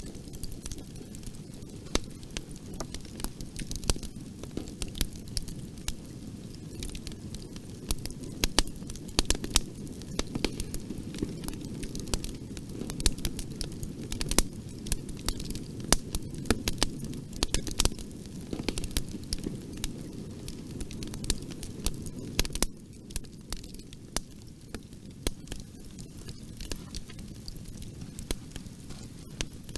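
Fireplace fire crackling, with irregular sharp pops and snaps over a low, steady rumble of flames. The rumble eases slightly after about two-thirds of the way through.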